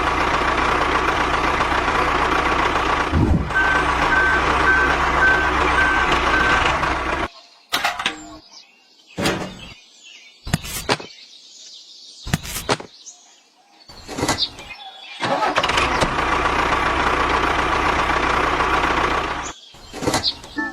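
Tractor engine running steadily, cut off abruptly about seven seconds in; then a quieter stretch of scattered knocks and clicks, and the engine running again from about fifteen seconds until near the end.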